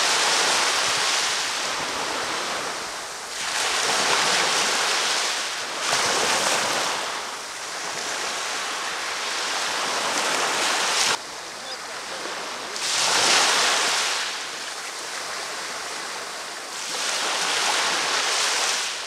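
Ocean surf breaking and washing up a beach, in swells every three to four seconds that rise and ebb. About eleven seconds in, one wash cuts off abruptly.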